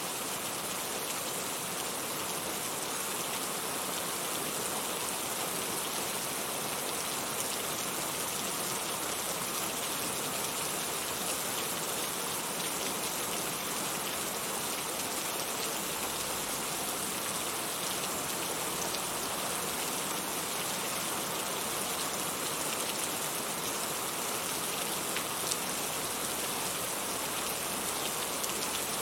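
Steady rain falling on a surface, a constant even hiss with scattered individual drops ticking through it.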